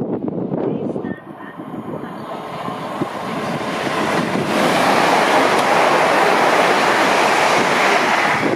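A train approaching and passing through the station at speed: a rush of wheel and air noise that builds over a few seconds into a loud, steady roar.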